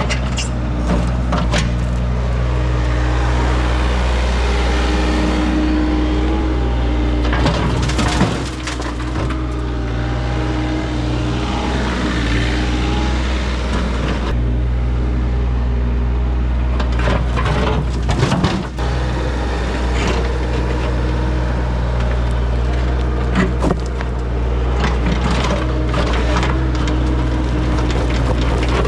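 Diesel engine of a construction machine running steadily, with irregular scraping, crunching and cracking knocks, loudest about eight and eighteen seconds in, as driveway material is dug and broken out.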